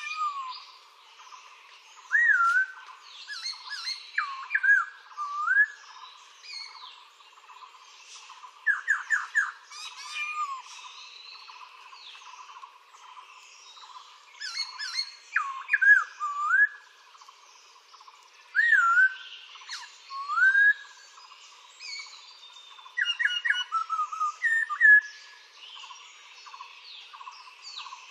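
Recorded birdsong: a bird sings loud phrases of clear whistled notes that swoop up and down, a phrase every few seconds with short pauses between, over fainter twittering of other birds behind.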